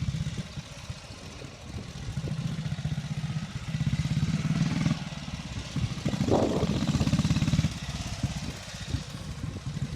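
Norton 16H motorcycle's 490 cc side-valve single-cylinder engine running as the bike is ridden, its steady chugging beat rising and falling several times with the throttle.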